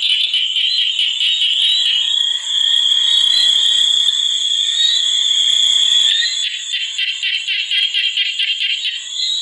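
A chorus of calling animals in nature ambience: a steady high-pitched ringing drone, joined about six seconds in by a fast pulsing trill that stops near the end.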